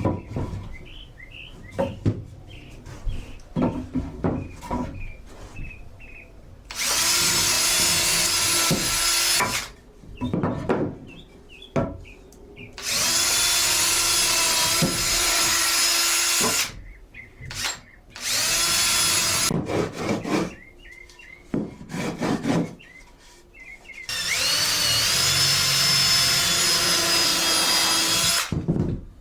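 Cordless drill driving 3-inch star-head deck screws into wood: four runs of a few seconds each with a steady motor whine, the last one rising in pitch as the motor spins up. Short knocks and handling clicks between the runs.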